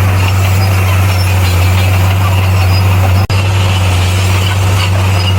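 Bulldozer's diesel engine running steadily with a constant low drone, broken by a momentary dropout about three seconds in.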